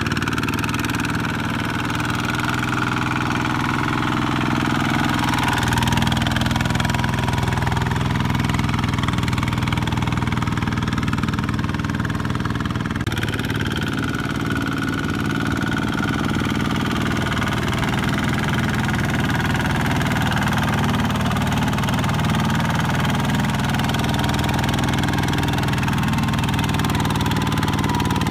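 Mini tractor (power tiller) engine running steadily under load, with a shift in its tone about halfway through.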